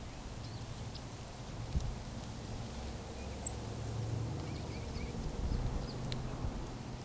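A few faint, short bird chirps and chips from small birds, over a steady low rumble with a couple of sharp knocks.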